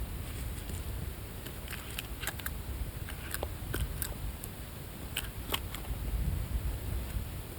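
Birds pecking at biscuits: scattered, irregular sharp little taps and crunches over a steady low rumble.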